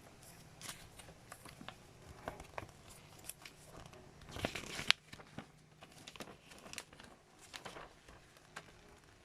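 Small plastic building bricks being handled and fitted together: irregular light clicks and short scrapes, with a louder scraping stretch ending in a sharp click about halfway through.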